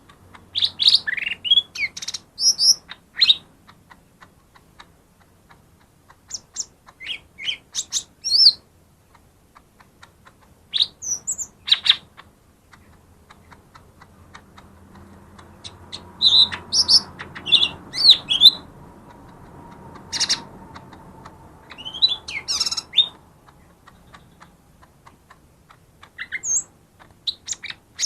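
Lesser green leafbird (cucak ijo mini) singing in bursts of quick, sharp chirps and whistles, with gaps of a few seconds between the phrases and the busiest stretch in the middle.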